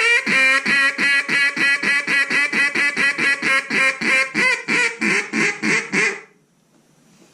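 Zink NBG single-reed acrylic duck call blown in a hail (comeback) call: a long run of about twenty loud, raspy quacks, roughly three a second, stopping about six seconds in.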